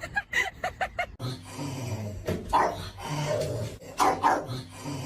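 A dog barking and vocalizing: a quick run of short, high calls in the first second, then lower barks with louder bursts about two and a half and four seconds in.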